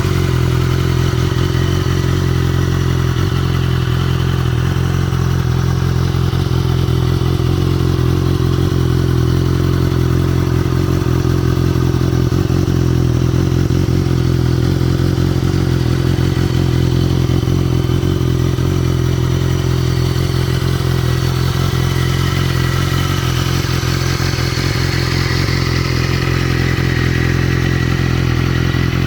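Motorcycle engine idling steadily at an even speed, with no revving.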